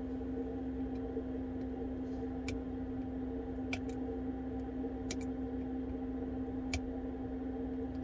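A steady electrical hum, with a few sharp small clicks of metal repair tools against the parts of an iPhone 12 being taken apart.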